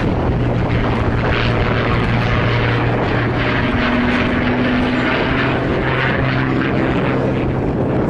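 Propeller aircraft engine droning steadily as it flies past.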